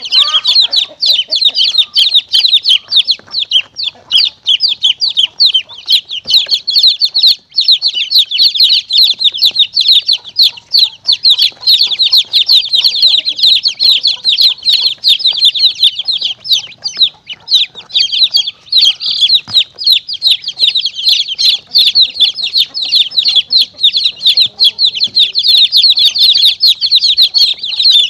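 Many baby chicks peeping at once: a dense, unbroken stream of rapid high-pitched cheeps. It is played as a predator-calling lure for monitor lizards and mongooses.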